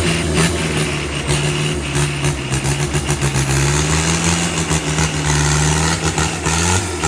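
Off-road 4x4 pickup engine running steadily at low speed, with repeated short clicks and knocks over it.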